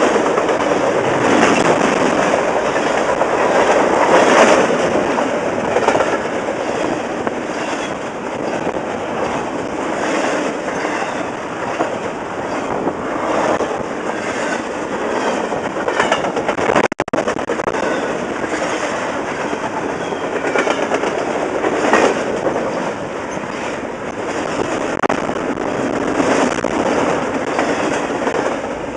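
A train rolling past close by: a steady rumble of cars with the steel wheels clicking rhythmically over rail joints, and a momentary break in the sound about 17 seconds in.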